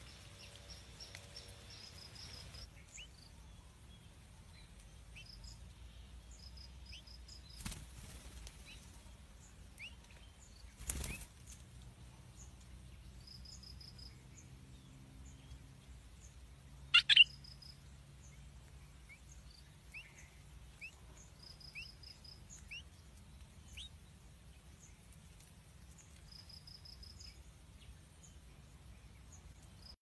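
Adult songbird at its nest, with wing flaps and rustling in the twigs. There are two softer bursts before the middle and two sharp, loud flutters just past the middle. Faint thin chirps and short runs of high pips sound throughout.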